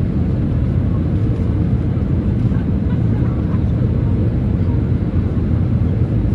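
Airbus A319 jet airliner's engines, a steady low rumble with no rise or fall.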